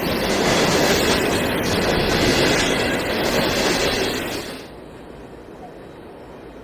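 Freight train passing close by: a loud, steady rush of wheels on rail that drops away abruptly about four and a half seconds in, leaving a much quieter low rumble.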